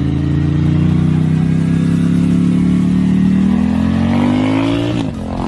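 Vehicle engine accelerating hard, its pitch climbing steadily for about five seconds, then dropping sharply near the end as it shifts up and starts climbing again.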